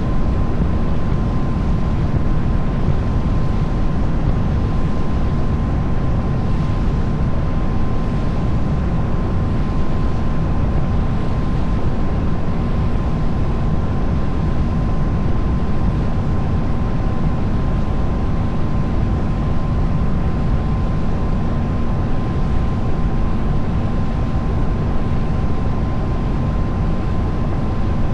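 Tour boat's engine running steadily under way: a constant low drone with a thin steady whine on top.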